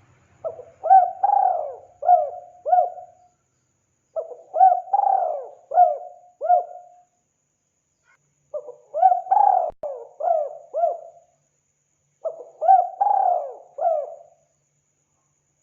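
Spotted dove (tekukur) cooing: four phrases of about five rising-and-falling coos each, separated by pauses of a second or two.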